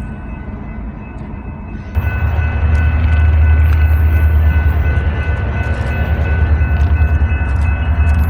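Diesel freight locomotive passing close, its low engine rumble jumping louder about two seconds in and then holding steady, with a thin steady whine above it.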